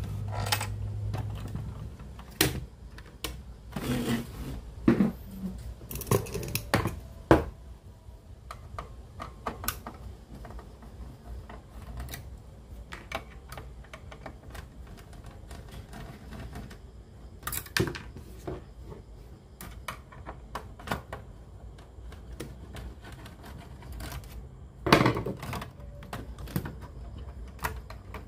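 Irregular clicks, clacks and knocks of small hard objects being handled, with a low hum in the first couple of seconds.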